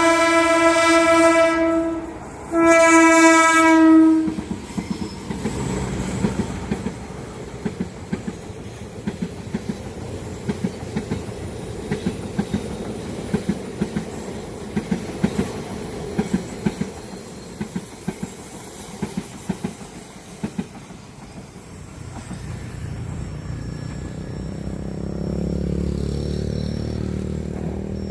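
Passing train: the horn sounds two long blasts, the second starting about two and a half seconds in, then the train's wheels make a steady clickety-clack over the rail joints. Near the end a low rumble builds.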